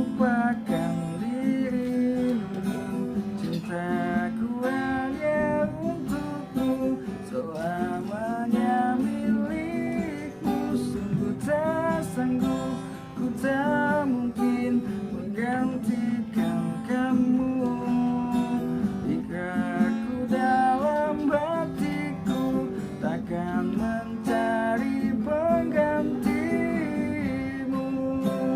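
Strummed acoustic guitar with a man singing the melody over it: an amateur acoustic cover of a pop song.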